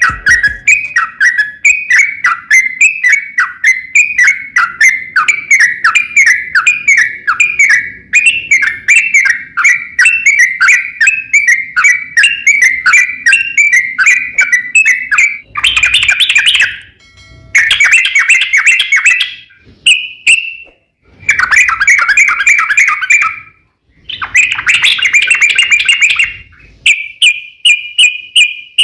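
A crokcokan songbird singing loudly and busily: a long run of repeated chirping notes, two or three a second. About halfway through it breaks into dense, rapid bursts of song separated by short pauses, ending in a fast, even trill.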